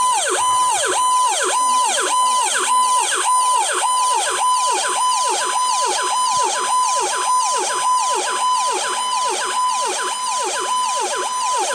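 Fire apparatus electronic siren sounding a fast yelp: each cycle sweeps up, holds briefly at the top and drops, about two cycles a second.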